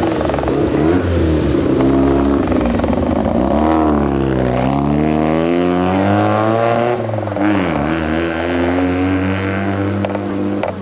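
Mazda RX-7's bridgeported six-port rotary (Wankel) engine pulling the car along under throttle, its pitch climbing and falling several times as it revs up and eases off.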